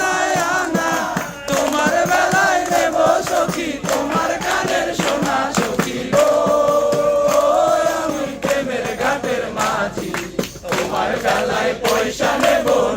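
A group of people singing together, several voices at once, with a crowd-like chanting quality.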